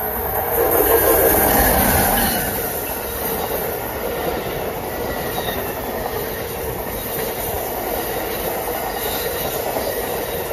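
Amtrak electric passenger train passing the platform at speed, steel wheels running on the rails. It is loudest about a second in as the head end goes by, then holds a steady rush of noise as the cars stream past.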